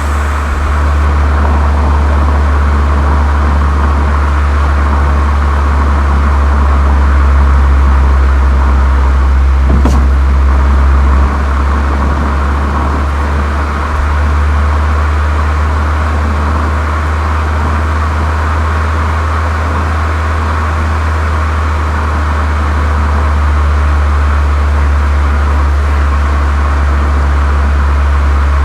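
Volkswagen Golf 7 GTI's 2.0-litre turbocharged four-cylinder running steadily through a Cox aftermarket exhaust, a loud, even low drone. A faint tick comes about ten seconds in, and the drone drops slightly a little after.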